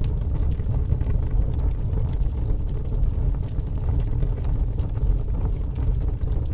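A fire burning with a steady low rumble and scattered, irregular crackles and pops.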